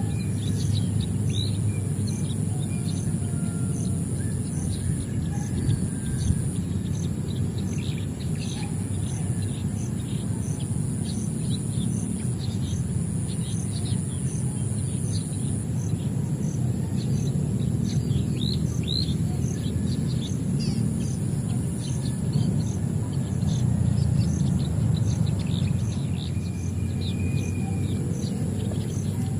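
Birds chirping, many short calls scattered throughout, over a steady high insect drone that pulses at an even rhythm. A steady low rumble sits under it all.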